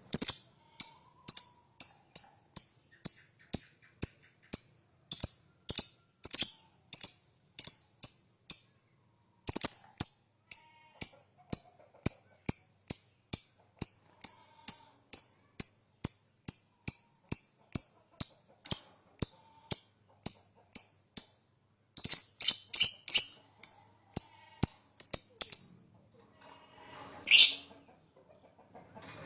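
A lovebird chattering in its long 'ngekek' call: a long run of sharp, high chirps, about two or three a second, that speeds up near the end, then breaks off before one longer drawn-out call.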